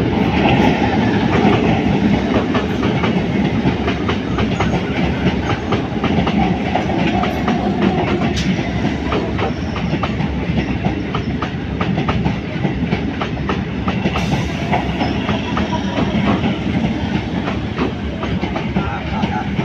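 Electric multiple-unit local train passing at speed over a bridge, loud and steady, its wheels clattering over the rail joints in a quick run of clicks.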